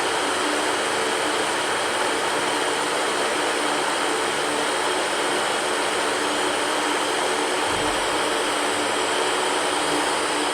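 Electric fan running steadily: a continuous whoosh of moving air with a faint motor hum underneath.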